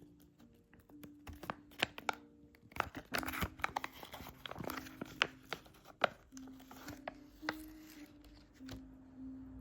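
Crinkling and rustling, like packaging or paper being handled, with a run of sharp clicks and taps, busiest in the middle, over quiet background music.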